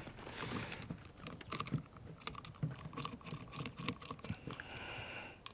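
Trigger spray bottle of protectant being pumped over and over, its trigger clicking irregularly with a faint short hiss near the end: the sprayer is not priming and will not spray.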